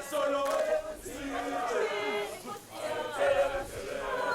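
Several voices singing together in a choir-like chant, with long held notes that waver in pitch.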